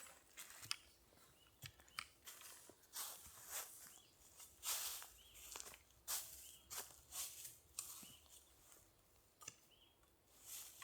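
Faint footsteps on dry ground, about one step every half second to a second, with a few short high chirps between them.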